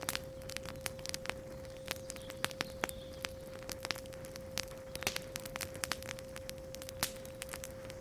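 Campfire crackling, with many sharp irregular pops and snaps, over a steady pure 528 Hz sine tone.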